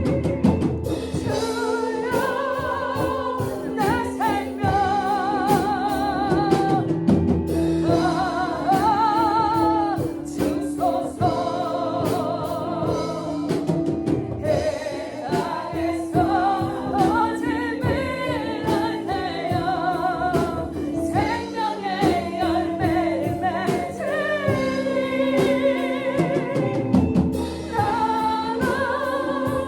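Worship song: voices singing with vibrato over sustained keyboard-like chords and a drum kit.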